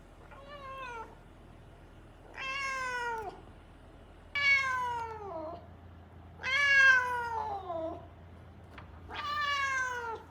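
A cat meowing over and over: five long, drawn-out meows about two seconds apart, each falling in pitch at its end, the first shorter and fainter and the middle two the loudest. It is the persistent crying of a cat that is not settling as a room cat.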